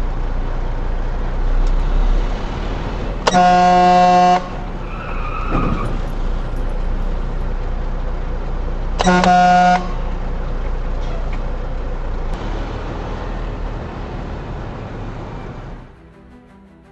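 Steady road and engine noise of a moving vehicle, with a horn sounding twice: a blast of about a second a few seconds in and a shorter one about nine seconds in. The road noise drops away shortly before the end.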